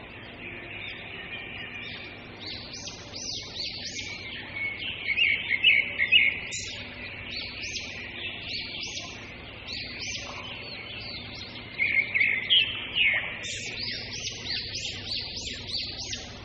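Small birds chirping and twittering in a busy chorus of quick, high chirps, denser around the middle and again a little after three quarters of the way in.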